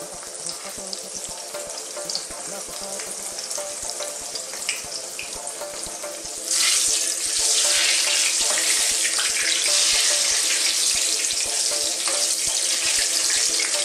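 Egg-battered eggplant shallow-frying in hot oil in a wok, a steady sizzle that turns suddenly louder and brighter about six and a half seconds in.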